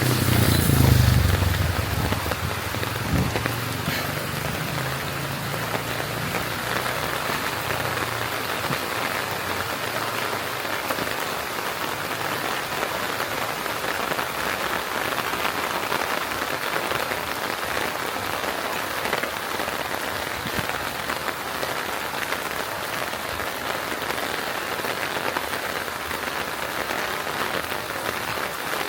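Steady rain falling, an even hiss of drops. A low rumble, loudest about a second in, falls in pitch and dies away within the first three seconds.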